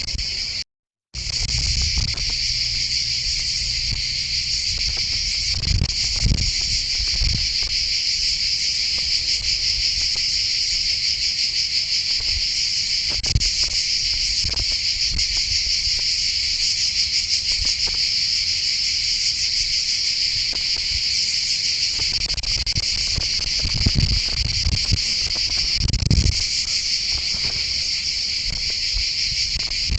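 A loud, unbroken high-pitched insect chorus. The sound cuts out completely for a split second about a second in. A few low thuds come about six seconds in and again near twenty-five seconds.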